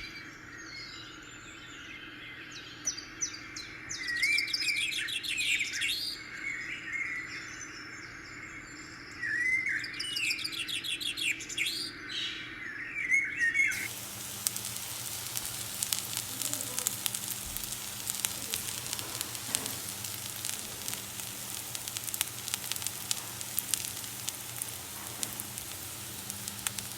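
Birds singing, with two longer bursts of chirping song over a low background. About halfway through, the sound cuts abruptly to food sizzling and crackling as it fries in hot oil.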